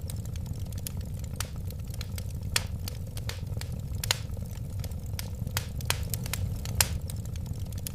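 Wood fire burning steadily: a low rumble of flames with irregular sharp crackles and pops, several louder snaps among them.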